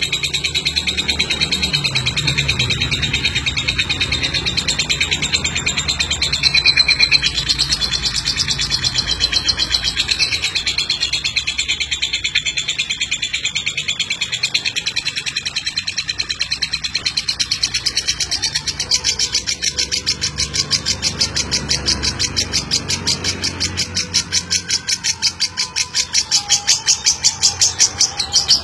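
Lovebird ngeklek: a long, unbroken, rapid high-pitched chattering trill that turns more sharply pulsed in its last third.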